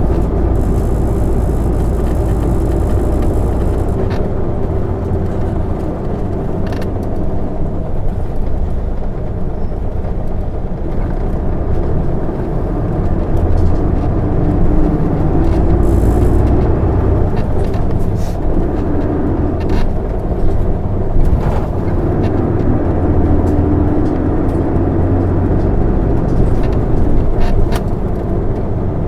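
Cabin sound of an Isuzu Erga city bus (PKG-LV234N2) under way: the diesel engine running continuously with road rumble, its note swelling and easing as the bus speeds up and slows. There are occasional short rattles.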